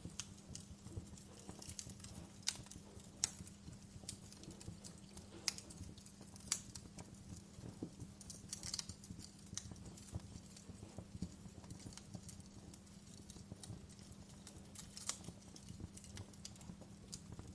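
Wood fire crackling in a fireplace: irregular sharp pops and snaps, a few of them louder, over a steady low background sound.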